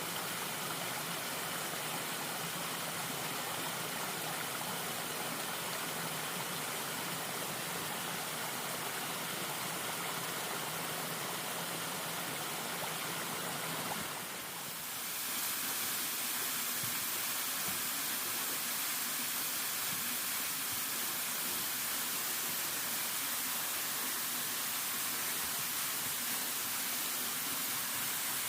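Steady rushing of running water, like a stream or river. About halfway through it dips briefly, then comes back brighter and hissier.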